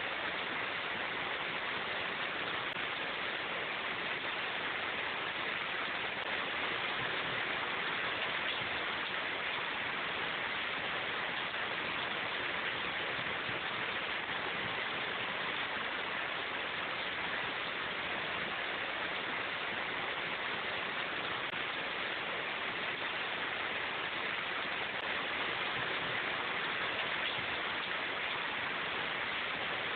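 Steady rain falling in a forest, an even hiss of drops on leaves that does not change in strength.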